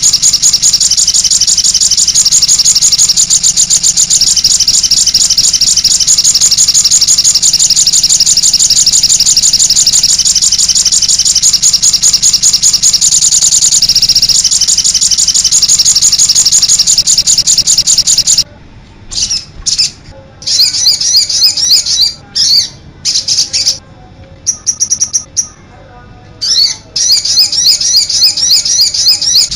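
Songbird masteran recording, a combination of bird songs used to tutor caged songbirds: fast, high chattering song runs almost without a break. About two-thirds of the way in it breaks into short phrases separated by pauses, then runs on continuously again near the end.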